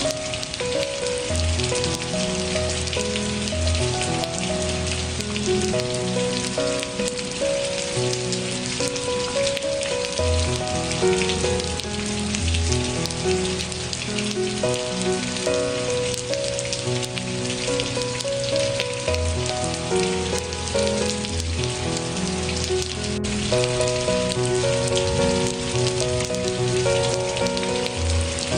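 Steady rain falling, a dense even patter, mixed with soft instrumental music of slow held notes over a low bass.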